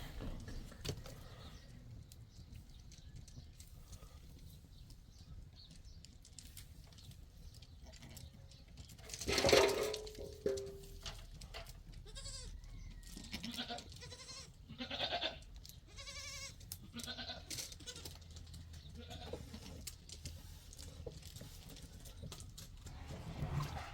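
An animal calling several times, with the loudest call about nine seconds in and shorter calls a few seconds later, over faint clicks and knocks.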